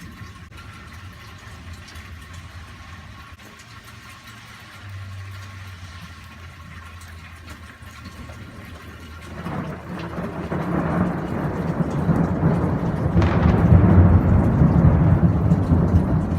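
Thunder rolling in about nine seconds in and building to a loud, deep rumble near the end, over steady rain.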